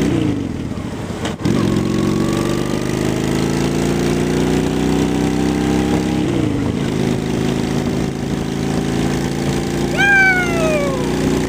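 2003 Honda Shadow 750's V-twin engine with aftermarket Cobra exhaust pipes, heard from the rider's seat while he accelerates. The engine note climbs, drops sharply at a gear change about six seconds in, then climbs again. A click comes near the start, and a short falling tone near the end.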